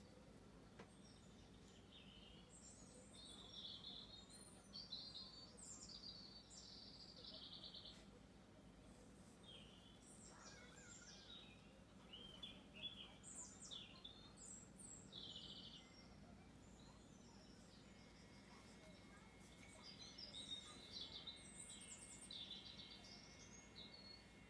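Songbirds singing faintly in quick high chirping phrases, in three bouts: a few seconds in, around the middle, and near the end, with pauses between.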